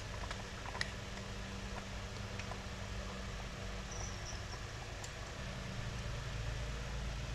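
A few faint clicks and taps of small carburetor parts being handled, over a steady low hum.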